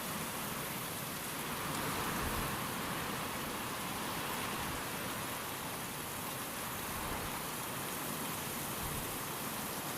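Steady rain falling, with wind swelling slightly about two seconds in.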